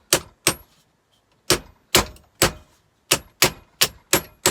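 Hammer blows driving a steel pin out of a fire extinguisher's valve head: about ten sharp metallic strikes in three quick groups, with short pauses between them.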